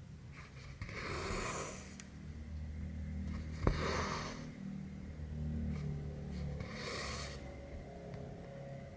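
Cotton embroidery thread drawn through cross stitch fabric in three swishes about three seconds apart, with one sharp tap of the needle just before the second.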